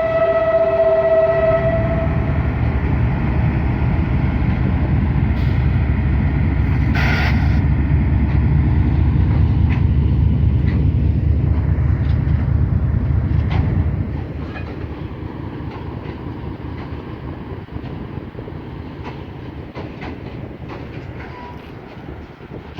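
A Pakistan Railways express train sounds a short horn blast at the start, then runs past with a loud, close rumble and rail clatter. About 14 seconds in the rumble drops sharply, leaving a quieter clatter with scattered clicks.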